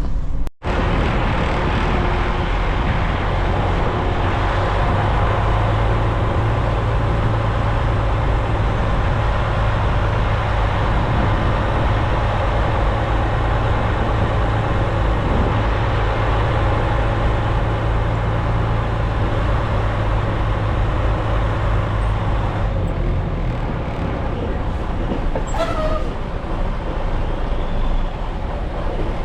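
Semi-truck's diesel engine running, heard from inside the cab as a steady low drone with road and cab noise; the drone eases off about three-quarters of the way through.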